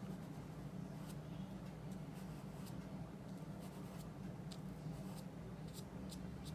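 Paintbrush loaded with oil paint dabbing and stroking on paper in short, scratchy touches over a steady low hum.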